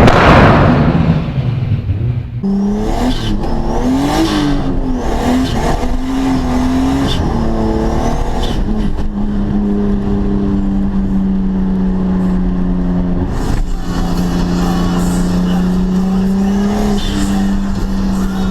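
A loud boom dies away at the start; then a Nissan Silvia's turbocharged engine revs up and down a few times before holding a steady, high-revving note, with one brief dip about two-thirds of the way through.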